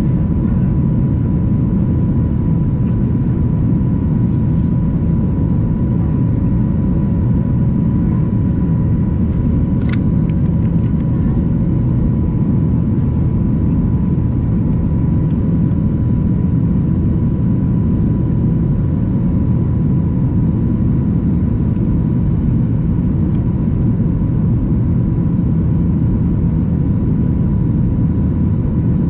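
Steady cabin noise of a Boeing 737-800 in its climb: a low, even rumble from its CFM56 engines and the air rushing past, with a faint steady high tone. A few brief clicks about ten seconds in.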